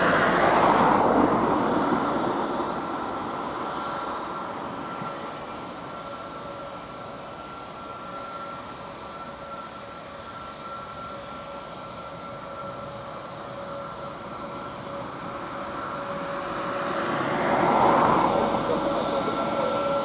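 Airbus A320neo jet engines running with a steady roar and a high whine. The sound is loudest at the start, fades through the middle, and swells again near the end.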